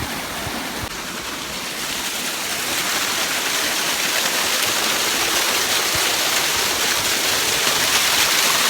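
Rushing water of a mountain waterfall and stream, a steady hiss that grows louder over the first few seconds and then holds.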